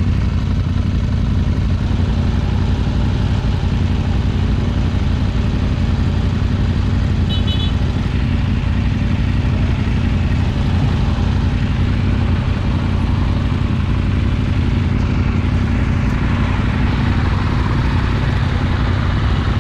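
Motorcycle engine idling steadily, an even low-pitched running sound with no revving.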